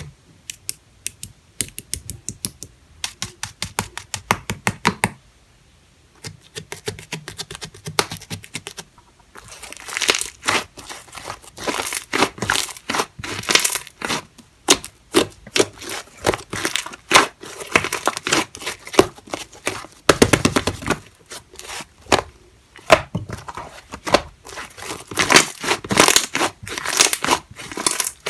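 Slime being squeezed and stretched by hand, giving quick runs of small sticky clicks and pops, with a couple of brief pauses.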